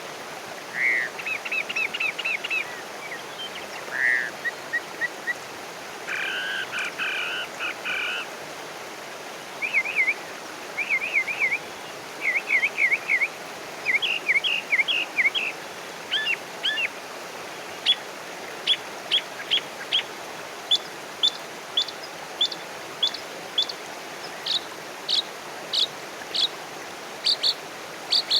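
Songbirds singing and calling in short phrases of quick repeated high notes and trills, coming in faster series of sharp notes in the second half, over a steady background rush.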